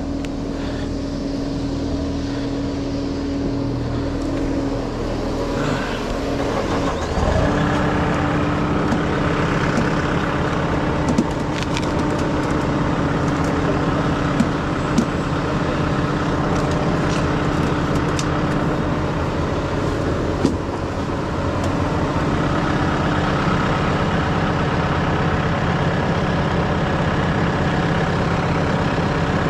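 Truck-mounted concrete pump's diesel engine running steadily, stepping up in speed and loudness about seven seconds in, with a few short knocks later on.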